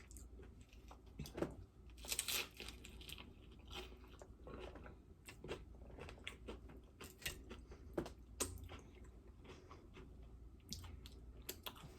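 Crunching and chewing of a crisp fried tostada shell close to the microphone, with irregular crackling bites.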